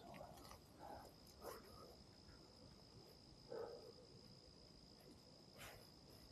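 Faint, steady high-pitched insect trill held on one unchanging pitch, such as a cricket or katydid, with a few soft rustles.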